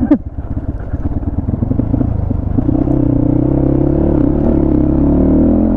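A 250 cc motorcycle engine revving while the bike is stuck in mud. Its pitch climbs slightly about two and a half seconds in, holds, then drops near the end.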